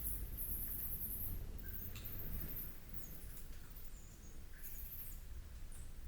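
Short, very high-pitched squeaks and chirps from small animals, coming in bursts several times, over a steady low rumble.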